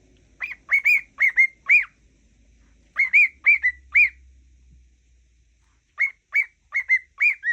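Cockatiel giving short whistled chirps, each note rising and falling, in three quick runs of four to six notes.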